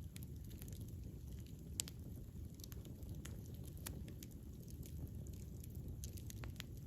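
Wood fire burning: a steady low rumble of flames with scattered crackles and small pops, one sharper pop about two seconds in.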